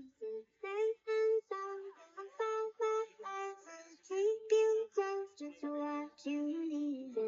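A high singing voice carrying a slow melody in held notes, phrase after phrase, with little or no low accompaniment.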